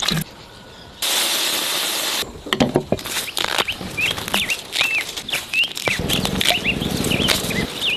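Small birds chirping in quick, repeated short notes over scattered sharp clicks and snaps, after a brief burst of steady hiss about a second in.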